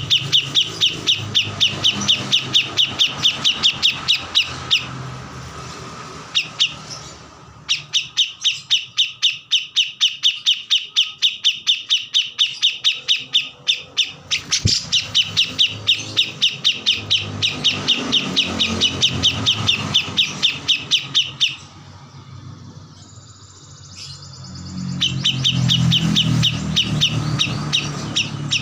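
A kores, the bird named as a murai batu training song, singing in full voice: long rapid trills of sharp, evenly repeated notes, about eight a second, in bouts of several seconds broken by short pauses.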